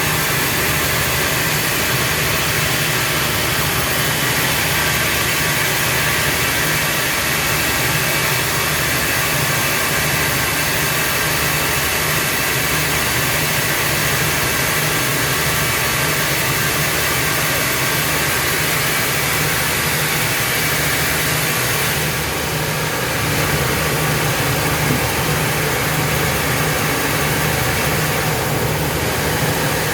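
Sawmill machinery running steadily: a constant engine-like hum under a broad hiss, with a small dip in level about two-thirds of the way through.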